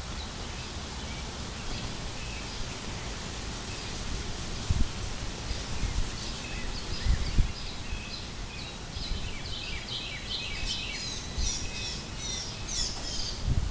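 Small songbirds chirping and twittering in quick short notes, busiest in the last few seconds, over a steady low rumble with a few dull thumps.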